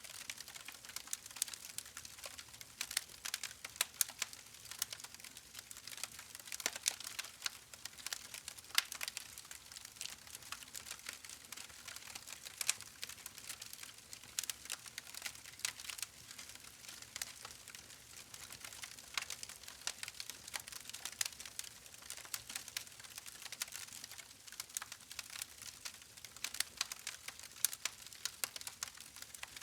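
Campfire crackling: irregular sharp snaps and pops over a soft hiss.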